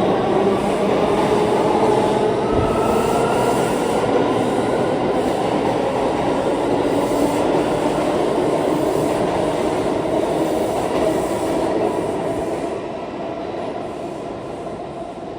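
R179 subway train pulling out of the station, its wheels clacking and rushing over the rails with faint motor tones, growing quieter about thirteen seconds in as the train draws away.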